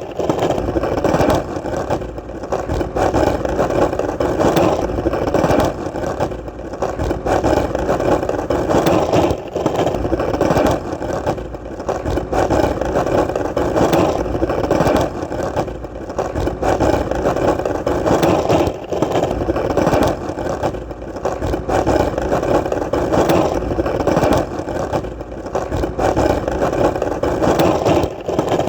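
Skateboard wheels rolling on hard ground: a continuous gritty rumble that swells and eases every few seconds.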